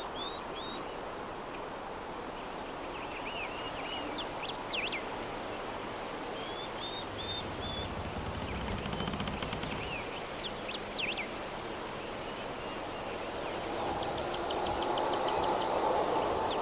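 Soft steady breeze with small birds chirping and whistling in short, quick phrases, including a fast trill of even chirps near the end. A low rumble swells briefly about halfway through.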